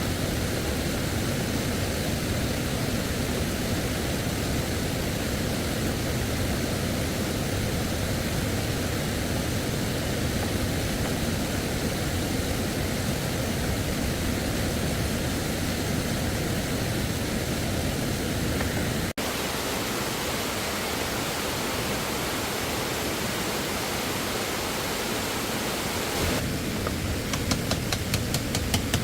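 Steady rush of stream water, with an abrupt cut about two-thirds of the way through. Near the end a quick, rhythmic series of strokes starts and gets louder.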